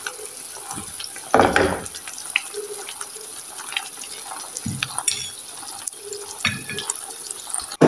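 Chicken breast pieces frying in shallow oil in a pan: a steady sizzle with scattered pops and crackles, swelling louder for a moment about a second and a half in.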